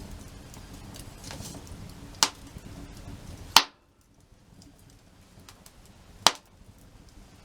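Wood fire crackling softly, with three sharp cracks at uneven intervals; the middle one, about halfway through, is the loudest, and the crackle is much fainter after it.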